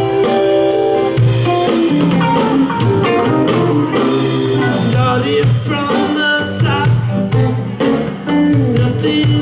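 A live rock band playing: electric guitars, keyboards, bass guitar and a drum kit in full swing, with a steady drum beat and a moving bass line.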